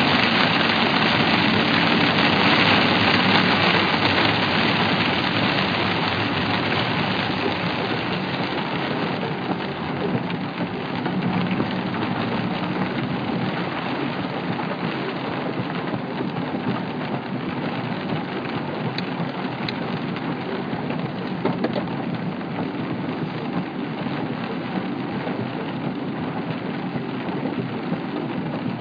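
Heavy thunderstorm rain pouring down, a dense steady hiss, loudest at the start and easing a little over the first several seconds.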